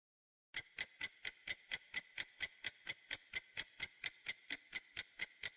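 Clock ticking, sharp and even at about four ticks a second, starting about half a second in: a countdown-timer sound effect.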